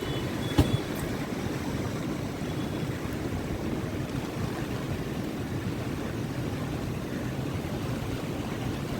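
Rough monsoon sea in strong wind: a steady rush of surf and wind, heaviest in the low end, with a brief sharp knock about half a second in.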